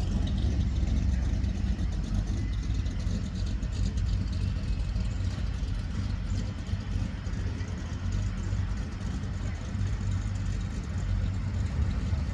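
Car engines running at low speed, a steady low rumble as cars roll in.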